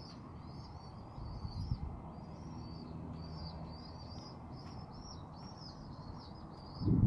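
A small songbird chirping a steady run of short, high notes, about three a second. A loud low rumble comes in near the end.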